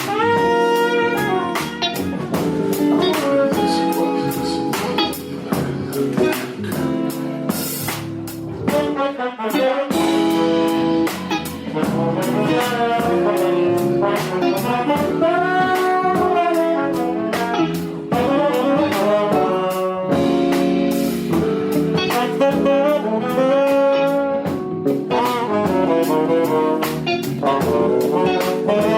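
A jazz sextet playing live: tenor saxophone and trombone lines over piano, electric guitar, electric bass and drums, with frequent cymbal strikes.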